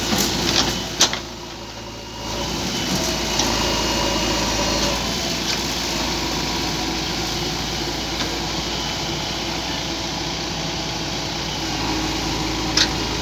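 JCB backhoe loader's diesel engine running steadily, briefly quieter about a second in, with a few sharp clicks near the start and one near the end.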